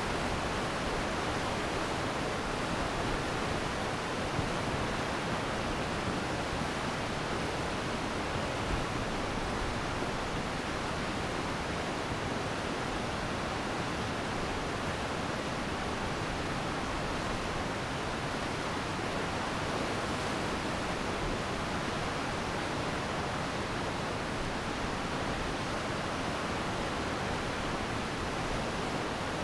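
Glacier meltwater stream rushing in a steady, even wash of water noise.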